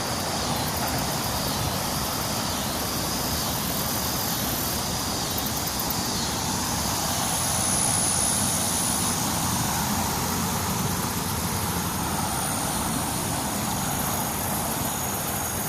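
Steady drone of distant road traffic, swelling slightly about halfway through, with thin high steady tones over it.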